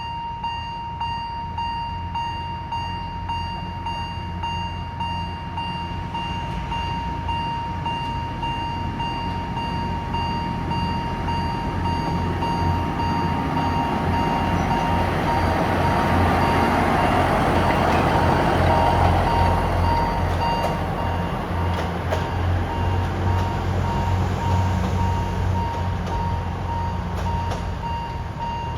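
Alishan Forest Railway DL-33 diesel shunting locomotive running light past, its engine drone and running noise growing louder to a peak a little past the middle, then easing off. A steady, high beeping warning tone sounds throughout.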